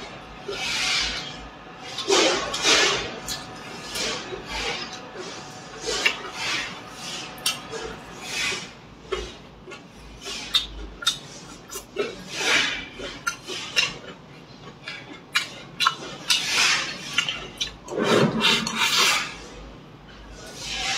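Close-miked chewing and lip-smacking of fried chicken and vegetables, irregular wet bursts with short pauses between bites.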